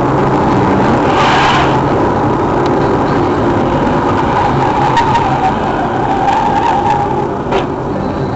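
A car on the road, its engine running steadily under loud tyre and road noise. A short louder rush of noise comes about a second in, and a couple of faint sharp clicks follow later.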